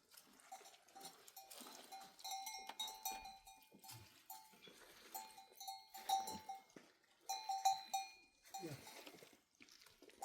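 Metal bells on livestock clanking irregularly, several ringing in short overlapping bursts as the animals move.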